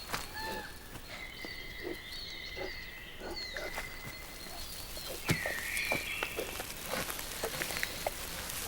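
Forest ambience: scattered bird calls, short chirps and whistles with a held whistle early on and a rising call about five seconds in, over irregular low croaking sounds and occasional clicks.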